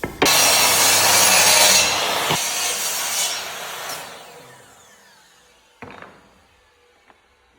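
Power saw cutting through a wooden parquet stave for about two seconds, then winding down with a falling whine. A single knock follows near the end.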